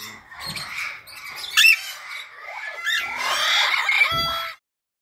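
Parrots squawking and chattering loudly, several shrill calls overlapping, until the sound cuts off abruptly near the end.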